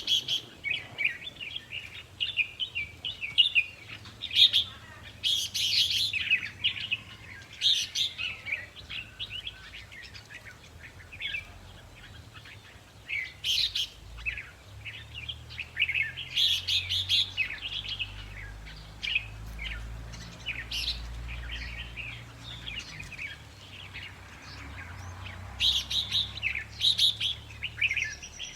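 Red-whiskered bulbuls singing: bursts of short, quick chirping phrases with brief pauses between them. A faint low rumble sits under the song in the middle stretch.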